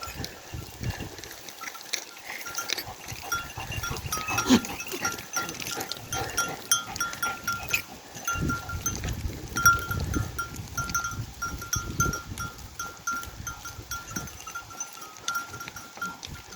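A flock of sheep and goats on the move, with a livestock bell clinking irregularly and occasional bleats.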